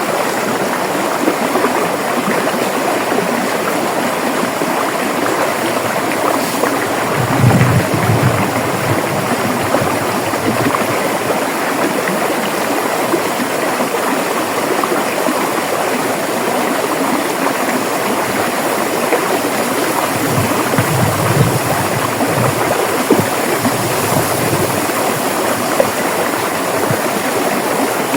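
River water running and rushing over rocks, a steady dense flow with a few deeper gurgling surges about a third of the way in and again past the middle.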